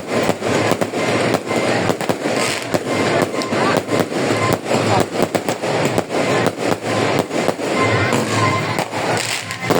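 Fireworks going off in a dense, continuous barrage: many rapid cracks and bangs one over another, with crackling throughout.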